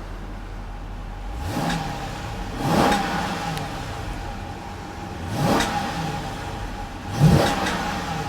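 2012 Chrysler 300C SRT-8's 6.4-litre 392 Hemi V8 idling, then revved in park several times, each rev rising and falling in pitch, the last the loudest. The revs are held to about 4,000 RPM by the park rev limiter.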